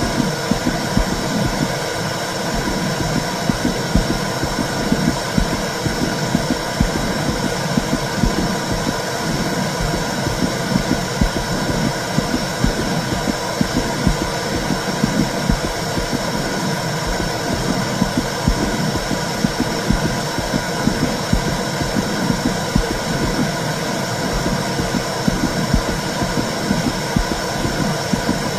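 Womb sound for soothing a baby: a steady, muffled low rumbling noise with a quick, uneven pulse running through it. Several faint constant tones sit above it.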